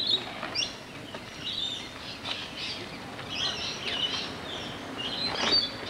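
Birds chirping and twittering, several short calls overlapping, with two louder calls about half a second in and near the end.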